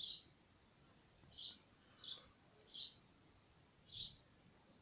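A small bird chirping: five short, high chirps, roughly one a second.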